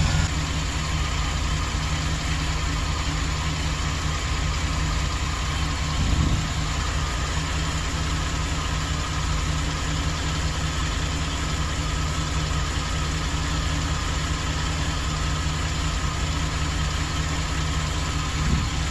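Engine of a 2008 Chevrolet Express van idling steadily just after start-up. The engine has a misfire under diagnosis. There is a brief low thump about six seconds in and another near the end.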